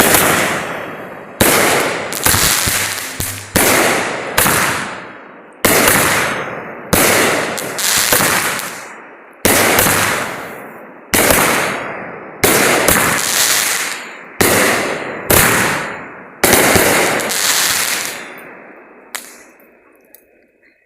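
Fireworks going off: a rapid series of loud bangs at irregular spacing, roughly one a second, each fading away quickly, until the volley stops about nineteen seconds in.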